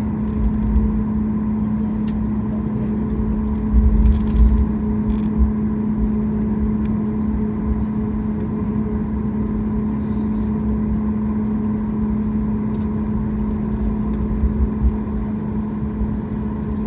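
Cabin noise aboard a Boeing 737 MAX 8 taxiing after landing: a steady engine hum over a low rumble from the wheels, with a few low thumps about four seconds in and again near the end.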